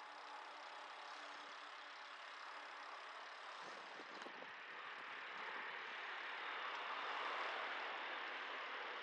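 Street traffic noise, a steady rush that swells from about halfway through to its loudest near the end as a vehicle goes by close at hand.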